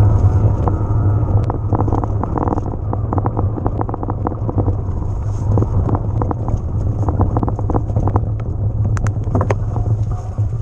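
Wind buffeting the helmet camera's microphone as an electric mountain bike rides over rough ground, with a steady rumble and many short rattles and clicks from the tyres and frame.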